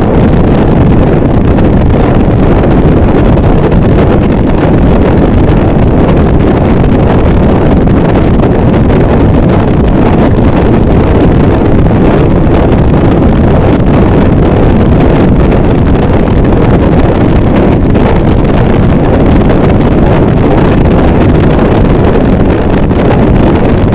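Harsh noise wall: a dense, unchanging wall of distorted static, very loud and weighted toward the low and middle range, with no rhythm or pitch.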